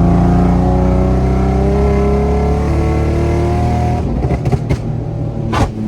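Nissan 350Z's V6 engine and exhaust pulling hard under acceleration, the note rising steadily in pitch. About four seconds in, the pitch drops as the revs come off, followed by a few short, sharp cracks from the exhaust.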